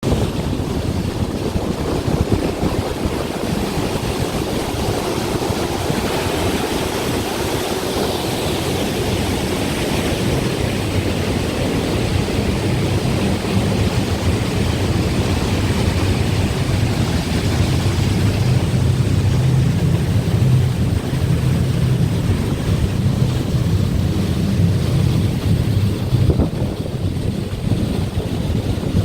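Pumped wastewater-plant effluent pouring over a flood gate: a loud, steady rush of water with a low rumble underneath, growing a little louder in the second half.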